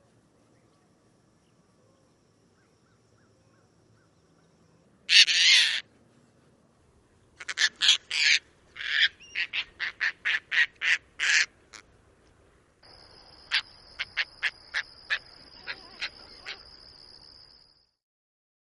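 Caspian tern giving raucous screams. One long loud scream comes about five seconds in, followed by a quick run of shorter harsh calls. Near the end a second recording brings a series of sharp short calls over a steady high-pitched background tone.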